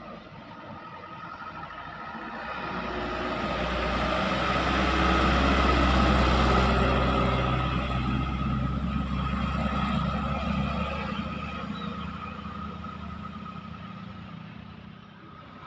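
A truck's engine approaching and driving past with a deep rumble, loudest about six seconds in, then fading away.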